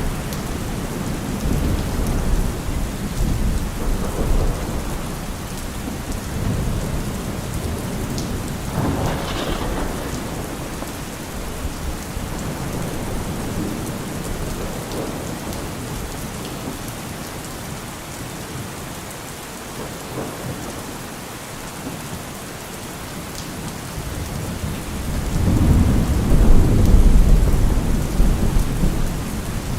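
Steady rain falling on a surface, with thunder rolling in the distance. One rumble comes about a third of the way in, and a louder, longer low rumble comes near the end.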